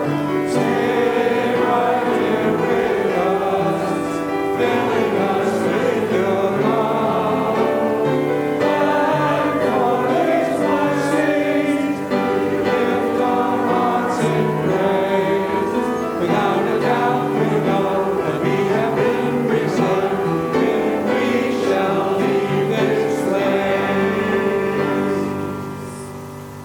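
Choir singing a sacred piece, the sound dying away near the end.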